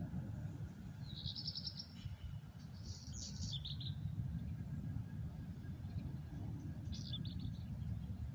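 A small songbird singing short phrases of rapid high notes, three times, over a steady low rumble.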